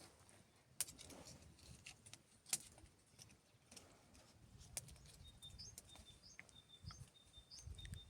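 Faint scattered clicks and taps, then from about five seconds in a bird calling: a short rising chirp repeated about twice a second over a thin steady whistle.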